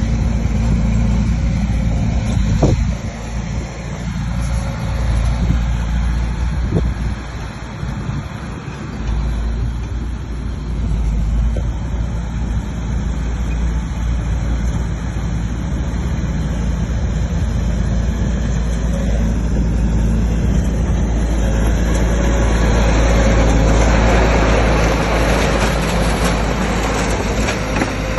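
Bulldozer's heavy diesel engine running steadily, growing louder about two-thirds through, with a couple of sharp clanks.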